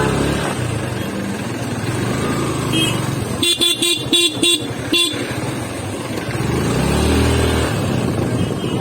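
Road traffic with a vehicle horn tooting a quick string of short beeps, about half a dozen, between three and a half and five seconds in. Motor vehicle engines run steadily underneath, and an engine rises and falls in pitch near the end.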